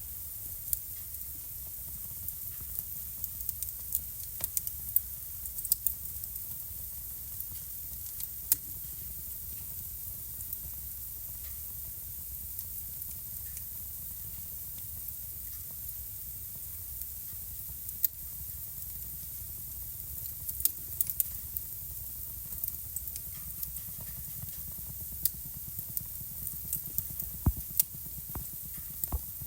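Wood fire burning in a fireplace: a steady soft hiss and low rumble with irregular sharp crackles and pops, bunched in short flurries.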